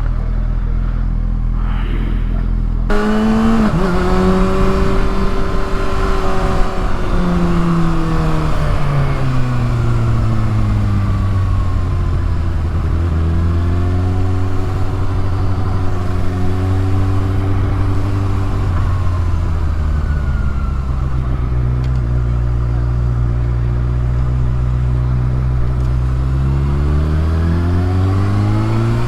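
Kawasaki ZX-6R sport bike engine idling steadily, then about three seconds in pulling away. The revs rise and fall several times as it accelerates, eases off and climbs again, over a steady rush of wind.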